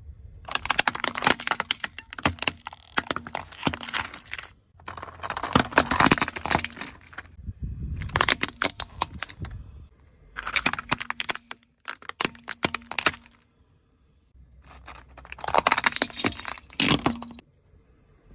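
Brittle objects cracking and snapping under a car tyre, in six bursts of dense crackling one to four seconds long with short pauses between, over a low rumble.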